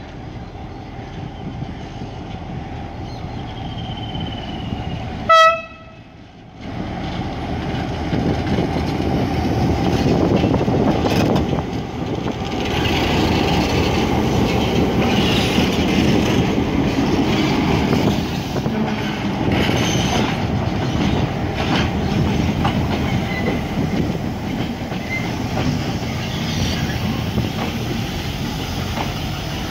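J16 diesel locomotive 319.237 gives one short, loud horn blast about five seconds in. It then runs close past hauling a rake of passenger coaches: a steady heavy rumble of engine and wheels, with clicks from the wheels on the rails.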